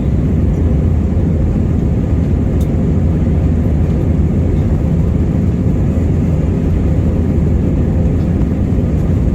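Airliner cabin noise: a steady low rumble of the jet engines and airflow heard from inside the passenger cabin, even and unbroken.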